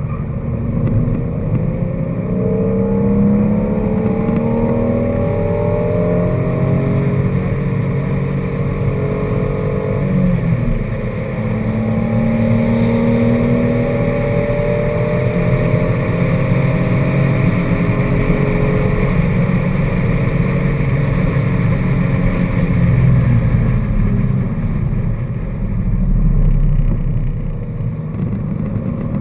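Car engine heard from inside the cabin, pulling hard on track. Its pitch climbs under acceleration, drops sharply about ten seconds in as it lifts or shifts, then climbs again and holds, over steady road and wind noise.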